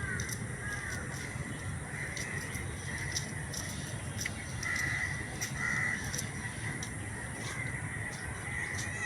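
Crows cawing, with two louder caws near the middle, over a steady outdoor background.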